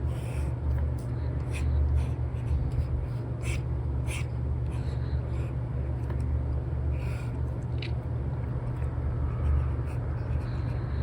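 Short, irregular scratchy strokes of a stylus nib drawing on a paper-textured tablet screen protector, over a steady low rumble of background white noise.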